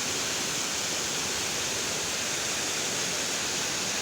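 Waterfall: falling water rushing with a steady, even hiss.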